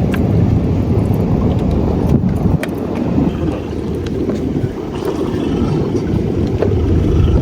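Steady low rumble on a fishing boat at sea, with wind buffeting the microphone.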